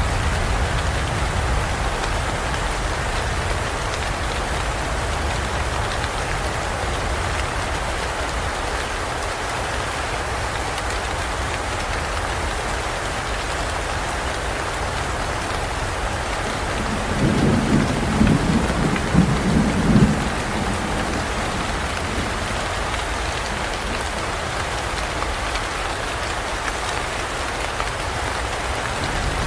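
Steady rain falling, with a low rumble of thunder a little past halfway that lasts about three seconds.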